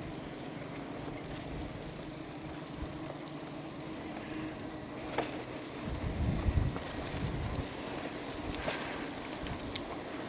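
Wind buffeting the microphone over a steady low hum, with stronger gusts of rumble about six seconds in.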